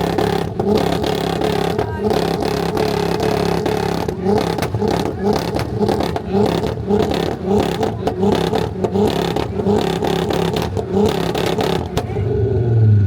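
Volkswagen wagon's engine held on a two-step launch-control rev limiter, stuttering against the limiter about two to three times a second with sharp exhaust cracks. About twelve seconds in it is let off and drops to a low rumble.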